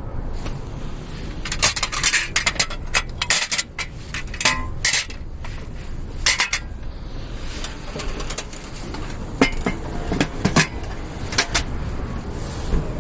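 Metal parts of a campfire table clinking and knocking as they are handled, with many irregular sharp clinks, over a low steady rumble.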